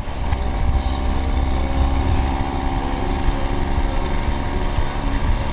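Harvesting machinery's engine running steadily, with a heavy low rumble and steady machine tones over it.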